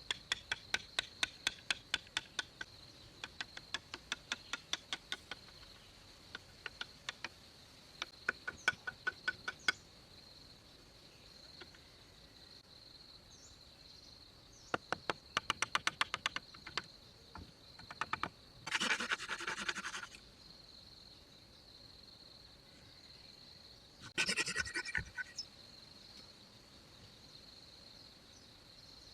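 A steady high insect drone, with runs of quick sharp taps, about four or five a second, over it. Two short scraping noises come about two-thirds of the way in.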